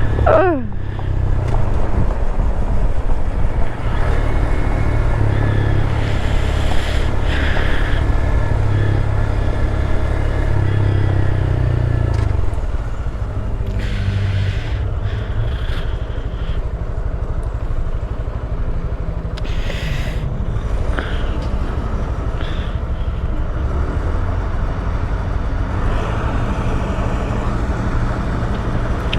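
Honda Grom's 125 cc single-cylinder engine running at road speed under a steady low rumble of wind and road noise on the rider's microphone. The sound drops slightly about twelve seconds in.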